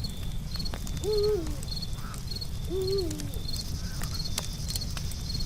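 Campfire crackling, with crickets chirping in a steady rhythm and two short, low hooting calls from an animal, about a second in and again about three seconds in.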